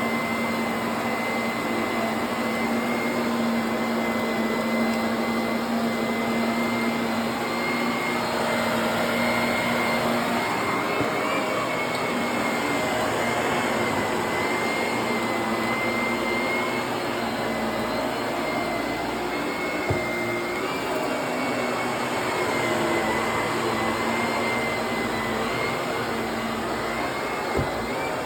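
Vacuum cleaner running steadily, its motor whine wavering slightly in pitch, with two brief knocks about twenty seconds in and near the end.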